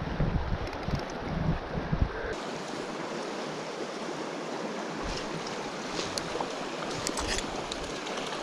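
Steady rush of a river's flowing water, with wind buffeting the microphone in the first two seconds.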